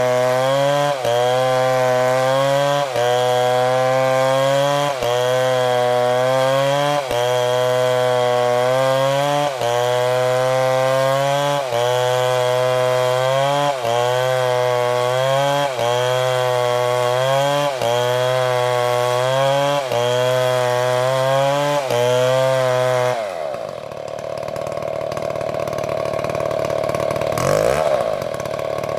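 Chainsaw engine running at high speed while cutting, its pitch dipping briefly and recovering about every two seconds. About 23 seconds in it winds down with a falling pitch, and a steadier machine noise follows.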